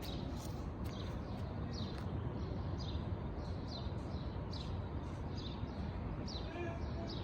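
A bird repeating a short, high chirp that drops in pitch, about once a second, over a steady low rumble.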